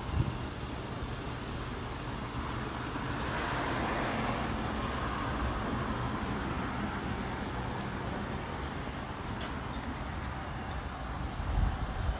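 Road traffic noise: a steady low rumble, with a vehicle passing by about three to five seconds in.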